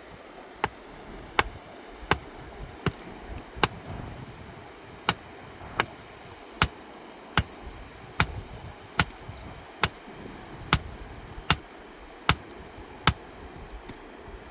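A hand tool striking repeatedly and steadily, about one blow every three-quarters of a second, each hit with a short metallic ring. There is a brief pause a few seconds in.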